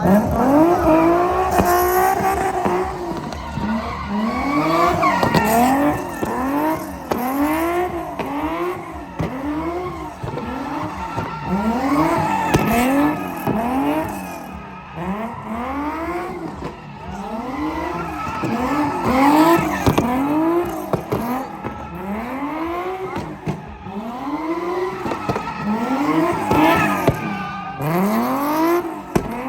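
Car doing a burnout or donuts: the tires squeal, their pitch rising and falling in repeated swells about once a second.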